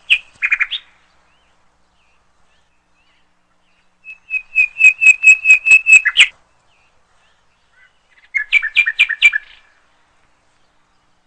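A bird chirping in quick runs of clear, high notes, about seven a second: a short burst at the start, a two-second run in the middle that ends on a louder note, and a shorter run near the end.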